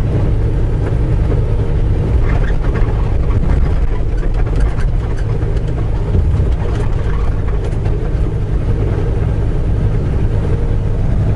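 Semi-truck diesel engine and road noise heard inside the cab while cruising at highway speed: a steady low drone.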